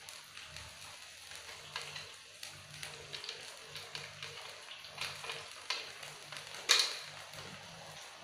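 Blended gulai spice paste sizzling in hot oil in a wok, with scattered crackles and a louder pop about two-thirds of the way through.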